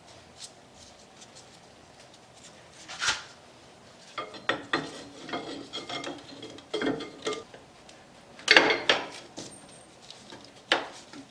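Metal brake-caliper parts clinking and scraping against each other as a motorcycle brake caliper is reassembled. A series of irregular clinks and rubs, the loudest clatter about eight and a half seconds in.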